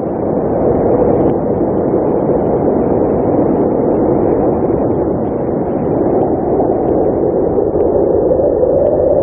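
Blizzard wind blowing steadily: a deep, continuous rushing that swells slightly near the end.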